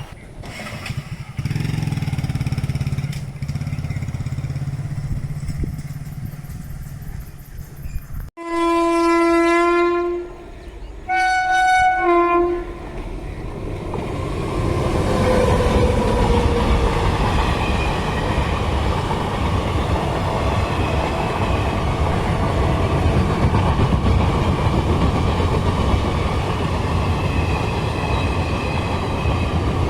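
Indian Railways locomotive horn sounding two blasts, a long one followed by a shorter one. The train then passes close by with a loud, steady rumble of wheels on the track.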